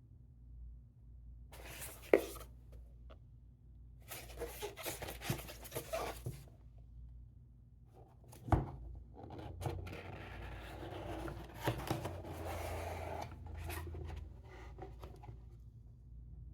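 Cardboard box being handled and opened: scraping and rubbing of cardboard, with sharp knocks about two seconds in and about eight and a half seconds in, then several seconds of steady rubbing and scraping as the box is opened.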